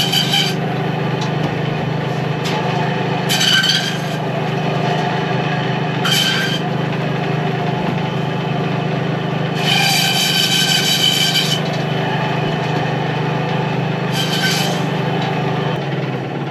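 Electric meat band saw running with a steady hum, cutting through lamb carcass bone five times with a louder, higher rasp each time; the longest cut, about ten seconds in, lasts nearly two seconds.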